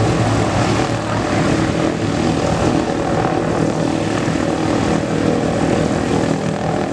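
Douglas DC-3C's twin radial piston engines and propellers running steadily as the airliner flies its display.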